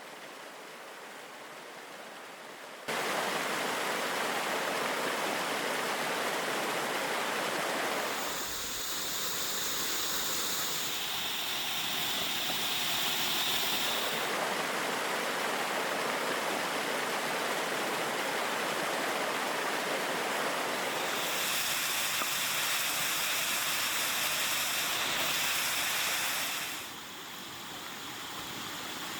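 Waterfall water rushing steadily. The sound changes abruptly several times, jumping louder about three seconds in and shifting in tone a few times after.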